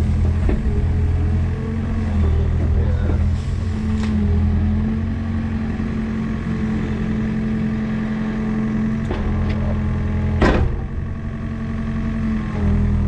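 Mini excavator's diesel engine running steadily under work, its tone rising and falling slightly, with scattered knocks. A sharp knock about ten and a half seconds in is the loudest sound.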